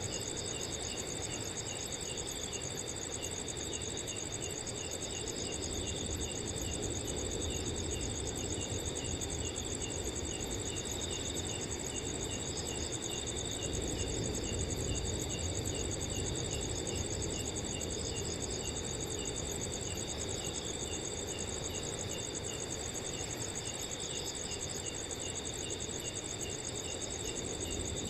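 A night chorus of crickets: a continuous rapid high trill with steadier ringing tones beneath it and a slower chirp repeating about twice a second, over a low, steady rush of wind.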